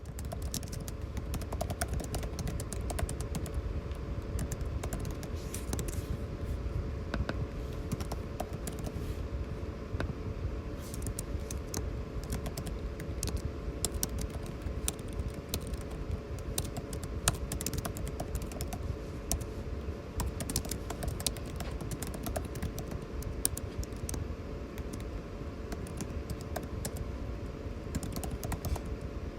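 Fast, irregular typing on a computer keyboard, many keystrokes clattering, over a steady low air-conditioning hum.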